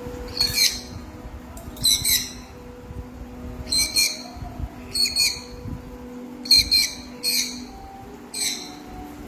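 Baby sun conure squawking, about eight short harsh calls at irregular intervals of roughly a second, one close pair near the middle.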